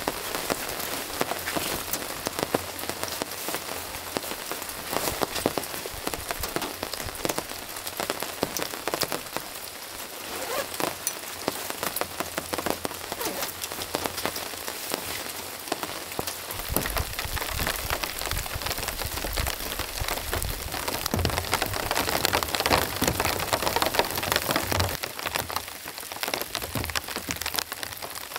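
Heavy rain pattering on a tarp overhead: a dense, even patter of drops with many sharp single hits. A little past halfway it grows fuller and heavier.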